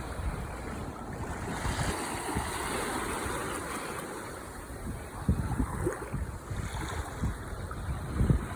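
Ocean waves washing onto the shore in a steady rushing hiss that swells in the first half. Wind buffets the microphone in short low thumps, the strongest near the end.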